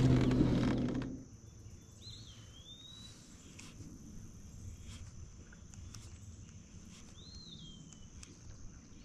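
Quiet lake ambience: a bird gives two short whistled calls, each rising then falling, about two seconds in and again about seven seconds in, over a steady high-pitched drone. A low rumble fades out in the first second or so.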